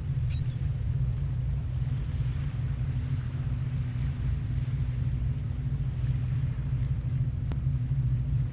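Low, steady rumble of surf at a beach with the tide out, with a soft hiss of small waves washing in that swells a couple of seconds in. A brief high chirp comes near the start and a faint click near the end.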